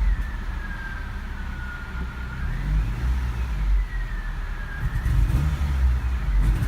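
Cold Honda HR-V engine running unevenly at low revs, settling down from a rev and then given gas again about five seconds in, with a faint whine that falls and rises with the engine speed. The roughness at low RPM under throttle is the cold-start misfire, which disappears once the engine is warm.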